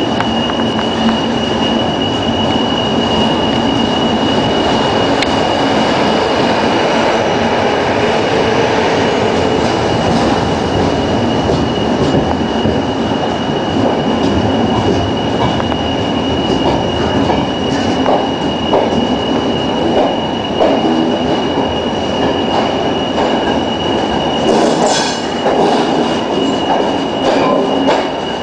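Railway train rolling, a steady rumble of wheels on rails with a continuous high-pitched tone of wheel squeal. Short clicks and knocks join in over the second half.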